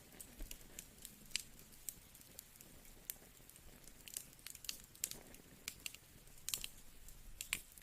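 Fire crackling in a fireplace: irregular sharp pops and snaps, a few louder than the rest, over a faint low hiss.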